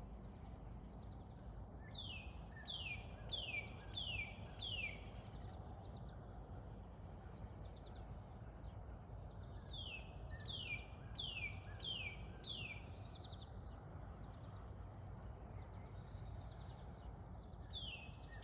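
A songbird singing phrases of four or five quick, falling notes, three times, over a steady low outdoor rumble.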